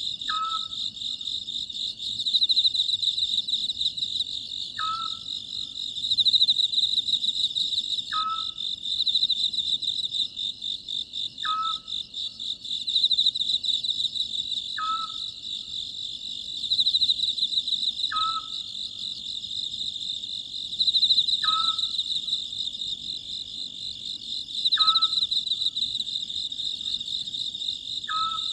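Oriental scops owl giving its two-note "sok-chuk" call over and over, about nine times at a steady pace of one call every three and a half seconds, over a continuous pulsing chorus of crickets.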